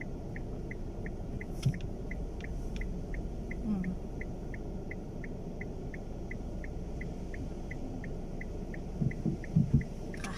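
A car's in-cabin signal sounding a steady run of short high pips, about three a second, over the low rumble of the car. A few low thumps come near the end.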